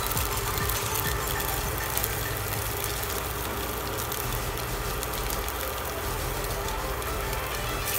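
Cubes of beef luncheon meat sizzling and crackling in hot oil in a cast-iron skillet, with a steady low hum underneath.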